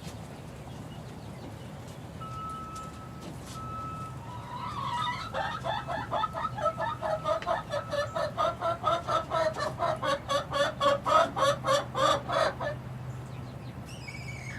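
Six-week-old chickens clucking: a fast run of short, evenly repeated notes, about four or five a second, starts about five seconds in and lasts some seven seconds.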